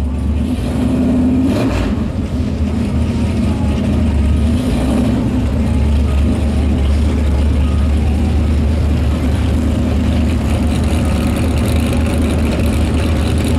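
Car engine idling steadily, a constant low rumble with no revving.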